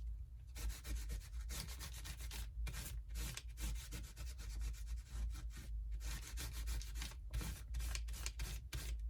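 Paper craft tag being rubbed over an inky craft surface in quick repeated scrubbing strokes, with a few brief pauses.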